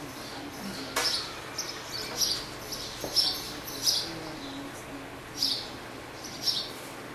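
Small birds chirping in short, irregularly spaced high calls, with a sharp click about a second in.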